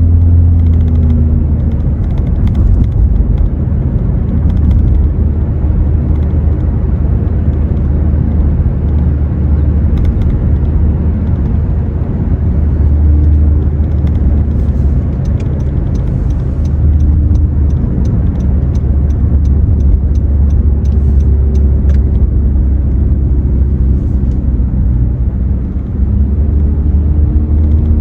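Exhaust of a 2017 Honda Accord LX's 2.4-litre four-cylinder with the muffler deleted, heard from inside the cabin while driving: a steady, loud low drone that rises and falls slightly with the throttle.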